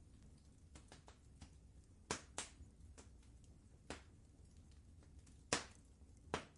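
Wood fire in a fireplace crackling: five sharp pops, the loudest about five and a half seconds in, with lighter ticks between them, over a low steady rumble.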